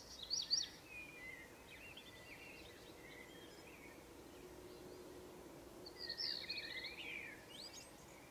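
Birds chirping faintly in short twittering phrases of high, sweeping notes, loudest near the start and again about six seconds in, over a low steady background hiss.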